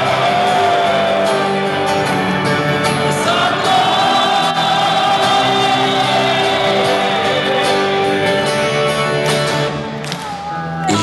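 Live rock band music: a passage without lyrics, a held, wavering melody line over sustained chords, easing off slightly near the end.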